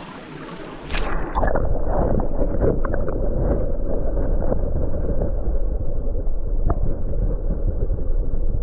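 Small mountain stream's water rushing and gurgling, heard muffled from under the surface. About a second in it sets in abruptly as a loud, steady low rumble with the higher sounds cut off, with a few faint knocks.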